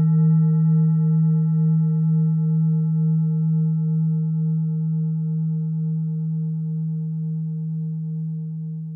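Tibetan singing bowl ringing out: a deep hum with several fainter higher overtones, wavering in a slow pulse as it slowly fades.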